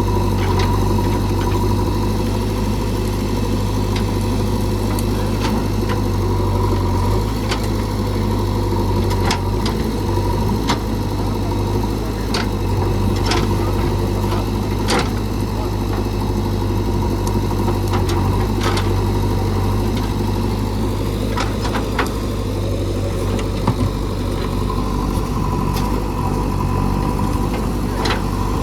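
JCB 3DX backhoe loader's diesel engine running steadily, with many short sharp cracks and knocks scattered through.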